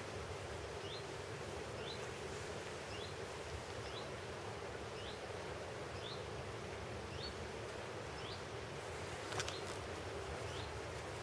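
A small bird repeating a short, rising call about once a second over steady outdoor background noise, with a single sharp click about nine seconds in.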